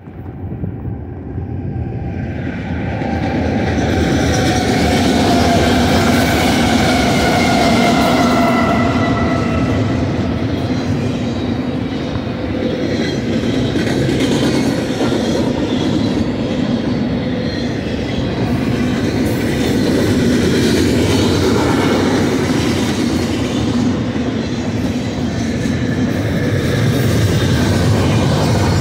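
Eastbound BNSF double-stack intermodal train passing at speed behind GE diesel-electric locomotives. The sound builds over the first few seconds as the locomotives arrive and go by, with a few tones sliding slowly down in pitch. Then the steady rumble and clatter of the well cars' wheels on the rails carries on.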